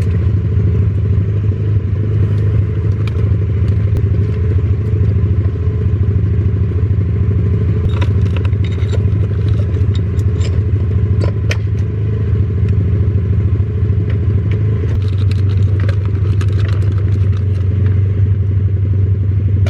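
A vehicle engine running steadily at an even pitch, a constant low drone with small clicks and rattles over it; it cuts off abruptly at the end.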